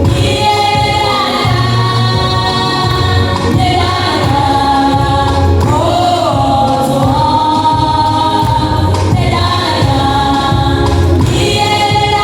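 A choir singing a gospel song with instrumental backing, held notes moving in phrases over a steady bass.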